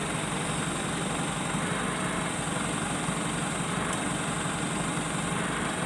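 A crane's engine idling steadily, an even mechanical hum with no change in level.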